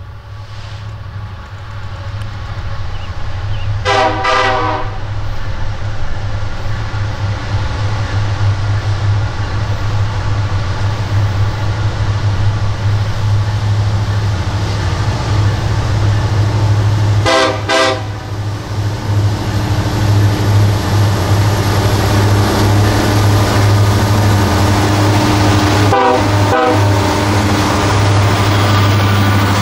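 Montana Rail Link diesel freight locomotives approaching and passing, their engines making a low steady drone that grows louder as they near. The locomotive horn sounds a blast about four seconds in, another about seventeen seconds in, and two short toots about twenty-six seconds in.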